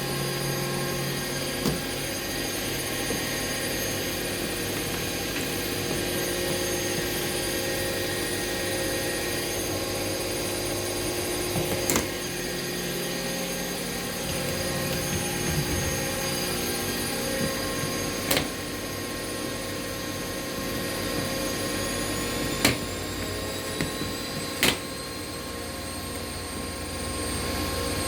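Two front-loading washing machines, a Bosch Classixx and a Hoover, running their final spin together: a steady motor whine with a drum rush. One whine rises slowly in pitch near the end as a drum speeds up. A few sharp knocks come through.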